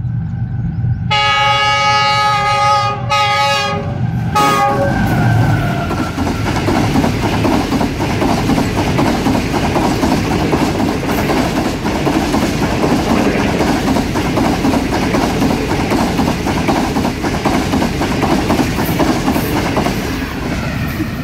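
Diesel locomotive of a passenger express sounding its horn while passing at speed: a long multi-note blast, then two short ones, the last falling in pitch as the locomotive goes by. The coaches then rush past with a steady clatter of wheels over the rail joints.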